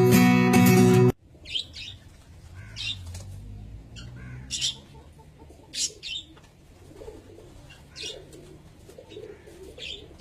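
Strummed guitar music cuts off about a second in. Then a parrot makes short, sharp sounds about every one to two seconds over a low background rumble.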